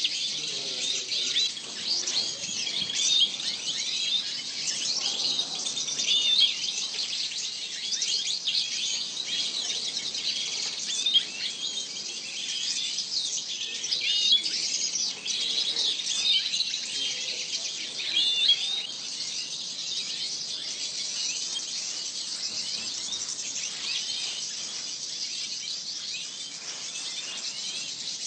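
A flock of small caged finches chirping and twittering, many voices overlapping in a continuous high chatter. It is busiest in the first two-thirds and settles into a steadier twitter near the end.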